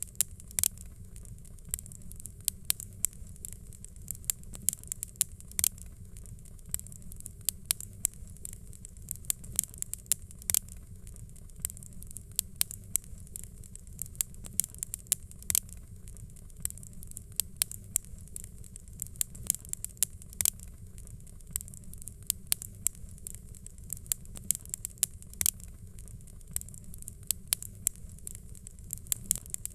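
Fireplace fire crackling: frequent irregular sharp pops over a steady low rumble.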